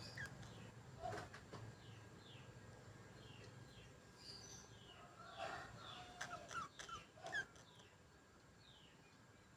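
Budgerigars chirping and chattering faintly in short falling chirps, with a cluster of louder calls from about five to seven and a half seconds in.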